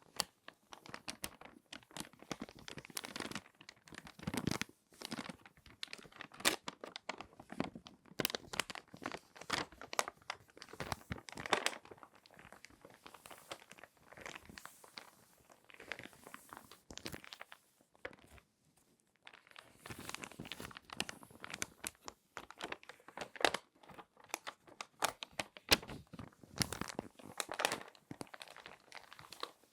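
Glossy magazine pages being folded and crinkled by hand: dense, irregular paper crackles, with a short pause about two-thirds of the way through.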